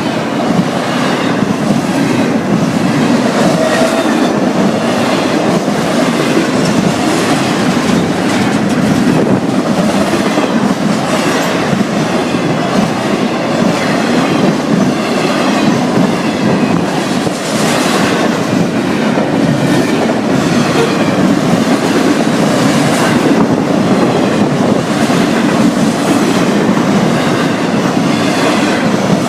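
Long freight train's cars rolling past at close range: a steady rumble of steel wheels on rail with clickety-clack over the joints.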